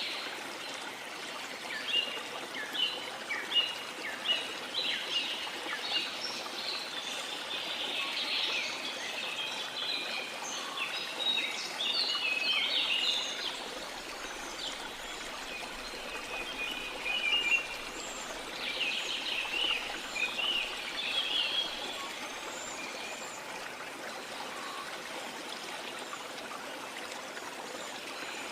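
Steady rush of a waterfall under a tropical rainforest bird chorus: many short, high chirps and calls, busiest in the first half and again about two-thirds of the way through.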